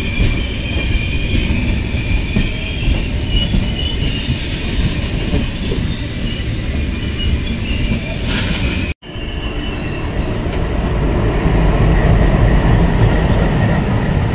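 Freight train wagons rolling past close by, wheels rumbling on the rails with a high squeal of wheel against rail. The sound drops out for an instant about nine seconds in, then returns with a heavier low rumble.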